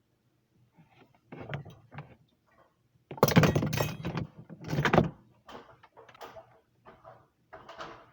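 A run of irregular knocks, bumps and scraping handling noises, with a loud stretch of clatter lasting about two seconds near the middle.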